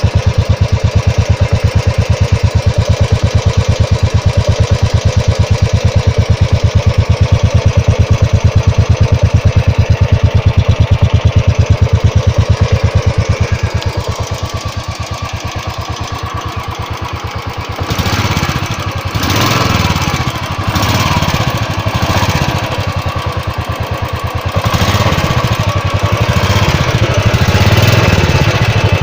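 Royal Enfield Classic 350 BS4's single-cylinder engine running through its stock silencer, first idling with a steady, even thump, then revved in several swells of the throttle over roughly the last ten seconds. The BS4 silencer has filters inside it and the bend pipe, which make the exhaust note subdued and muffled.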